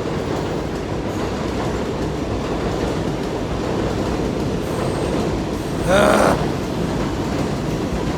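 7 line subway train running, a steady rumble of wheels on the track. About six seconds in, a brief, louder pitched squeal rises and falls over it.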